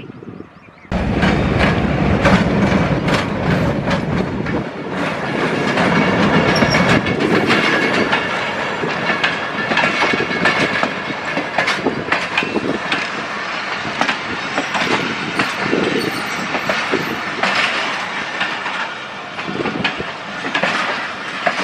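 Express passenger train passing close by at speed, its wheels clattering over the rail joints. The noise comes in suddenly about a second in and stays loud throughout.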